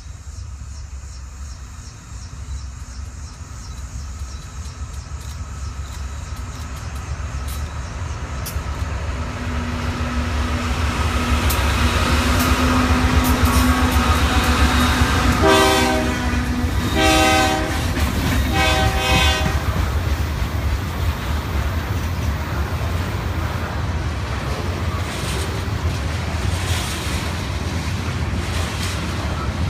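A freight train passing. The diesel locomotives' engine rumble grows as they approach and is loudest as they go by about halfway through. The horn sounds three short blasts at that point, then loaded tank cars roll past with a steady rumble and clicking wheels.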